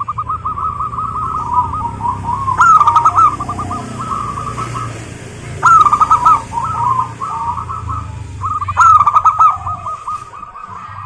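Zebra dove (perkutut) singing its staccato cooing song: phrase after phrase, each opening loudly and running on into a rapid string of short coos, with a new phrase starting about every three seconds.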